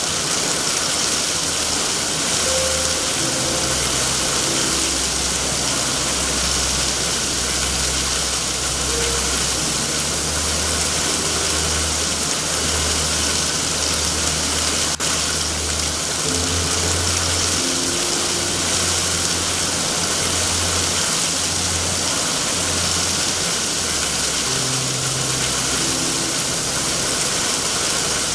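Steady heavy rain hissing. Slow, soft low music notes shift every second or two beneath it.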